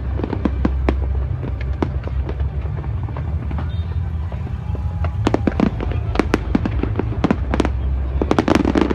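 Fireworks display: many sharp cracks and bangs at irregular intervals, clustered densely at times, over a steady low rumble.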